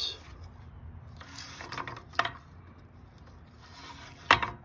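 Trailer winch strap rubbing as it is run under the roller toward the winch, with two sharp metallic clicks; the second, near the end, is louder.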